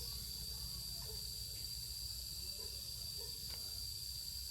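Steady high-pitched insect drone, typical of crickets or cicadas, over a low steady hum, with a few faint short chirps now and then.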